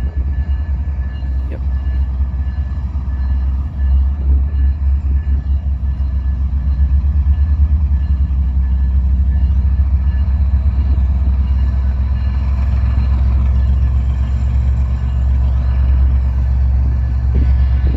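Diesel freight locomotives running close by: a loud, steady, heavy low rumble with a pulsing throb, swelling slightly a few seconds in.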